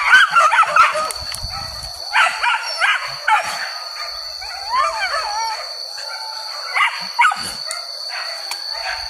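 Hunting dogs yelping and baying in repeated bursts of high, wavering cries.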